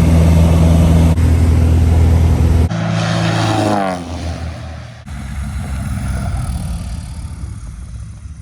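Cessna Skywagon's six-cylinder 520 engine and MT propeller running with a loud, steady low drone, changing abruptly several times between shots. A little past the middle the pitch slides down, and the engine sound is quieter toward the end.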